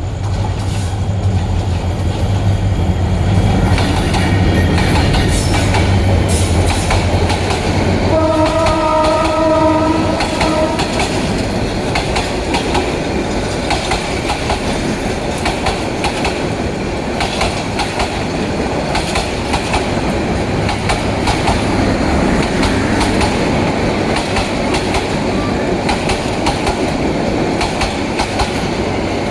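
Bangladesh Railway passenger train passing at speed. Its diesel locomotive hums heavily at first and sounds one horn blast of about two seconds, some eight seconds in. The coaches then rattle and clatter over the rail joints for the rest of the time.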